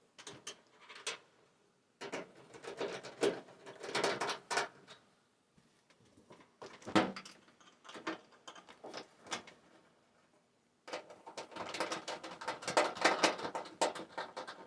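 Metal dryer panels and screws being handled and fitted: irregular clattering, scraping and clicking in bursts, with short quiet gaps between them.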